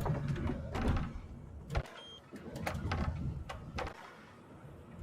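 Knocks, clicks and rustling inside a truck cab over the low rumble of the cab, with a short high electronic beep about two seconds in.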